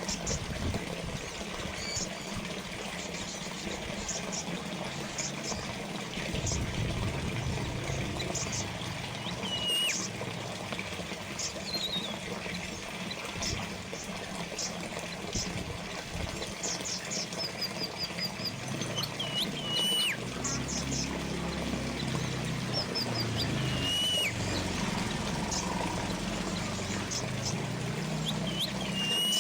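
Water trickling and splashing steadily from a small fountain, with birds chirping now and then and a few short whistled calls that dip in pitch.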